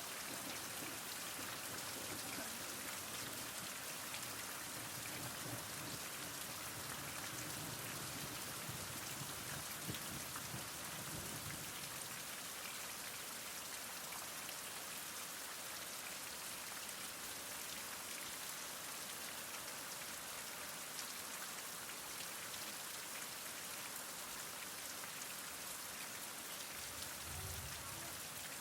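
Heavy rain falling steadily, a dense even hiss of drops on surfaces. A faint low rumble comes and goes under it in the middle and near the end.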